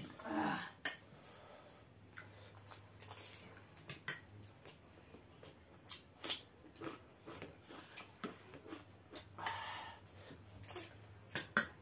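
Close-up eating sounds: crunchy bites and chewing of raw cucumber and pasta, with scattered sharp clicks of spoons against steel bowls. A short voice sound right at the start.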